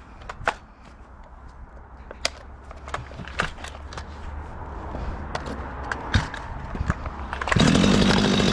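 Footsteps and scattered knocks of wood and tools being handled, then about three quarters of the way through a chainsaw starts running loud and steady.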